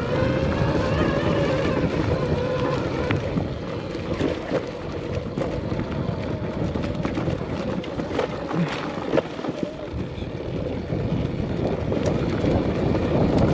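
Arctic Leopard XE Pro electric dirt bike riding a trail: a steady electric motor whine under wind noise on the microphone, with a few sharp knocks from the terrain.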